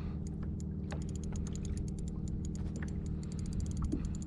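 Spinning reel clicking in rapid, uneven runs during the fight with a hooked false albacore, the clicks coming thickest near the end, over a steady low hum.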